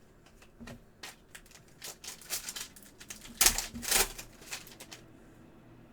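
Trading cards and pack wrapper being handled: a quick run of clicks, slides and crinkles, loudest about three and a half seconds in, then dying away near the end.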